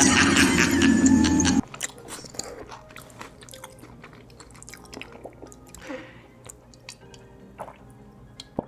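Background music until about a second and a half in, then cutting to close-miked mukbang eating sounds: a person chewing food, with many small clicks and wet mouth noises.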